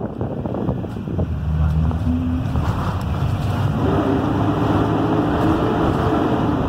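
Blue Bird Vision school bus's Cummins B6.7 diesel engine running under way, its note rising about four seconds in as the bus picks up speed, over steady tyre hiss on a wet road.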